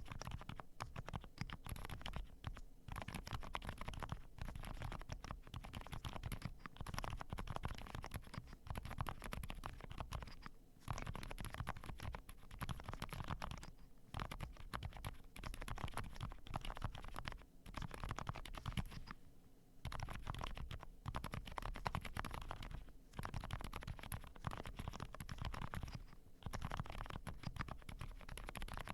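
Typing on a Zoom65 mechanical keyboard with hand-lubed Cherry MX Silent Black linear switches: a quick, steady run of quiet keystrokes with a few short pauses. The keys have a bubbly, scratchy sound, close in feel to a Topre electrostatic-capacitive board.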